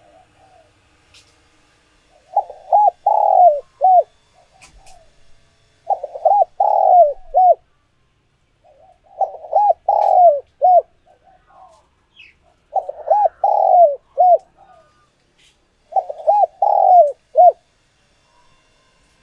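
Spotted dove cooing: five repeated phrases, each a quick run of several low coos lasting about a second and a half, coming about every three and a half seconds. This is the male's territorial song, played as a decoy call to rouse wild doves.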